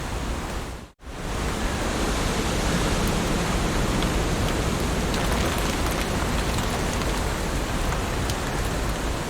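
Heavy rain falling steadily on leaves, a dense even hiss with fine drop ticks. It cuts out briefly about a second in and swells back within a fraction of a second.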